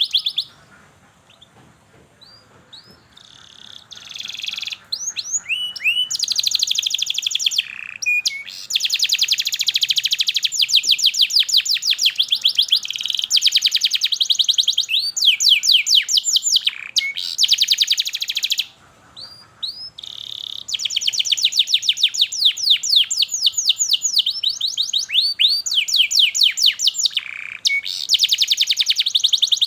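Domestic canary singing long, rapid trills, each made of fast downward-sweeping chirps repeated many times a second, in phrases with short breaks between them. There is a quiet pause of a few seconds near the start and a brief one about two-thirds of the way through.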